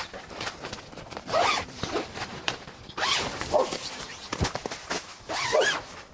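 A zipper pulled in several long strokes, three main pulls about a second or two apart.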